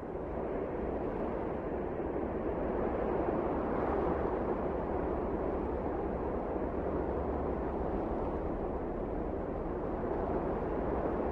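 Wind blowing as a steady rushing noise, swelling over the first few seconds and then holding even.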